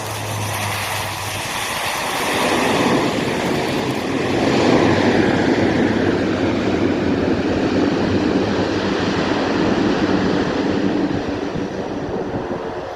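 Lockheed Martin MC-130J Commando II's four turboprop engines and propellers running loud as the aircraft passes. The sound swells over the first few seconds with a falling pitch, then holds a steady drone.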